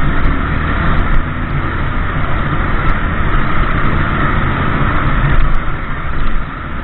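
Motorbike running steadily on the road: a constant engine hum under an even rush of road noise.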